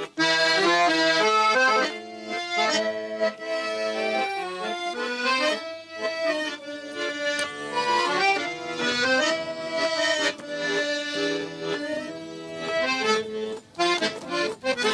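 Accordion playing an instrumental passage of a tango song: a melody over sustained chords with a steady bass accompaniment.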